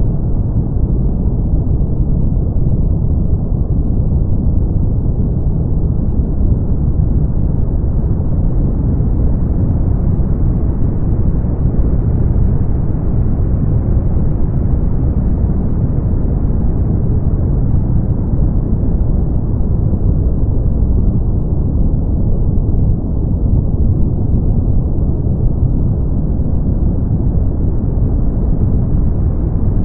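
Brown noise: a steady, deep rumbling hiss, strongest in the bass and dull at the top, with no changes or events.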